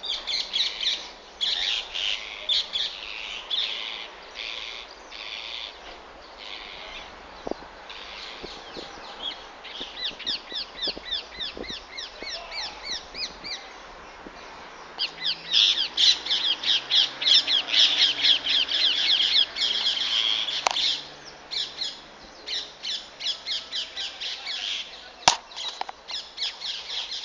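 A flock of green parrots calling in the treetops: many rapid, shrill, repeated squawks overlapping in busy runs, loudest and densest in the second half.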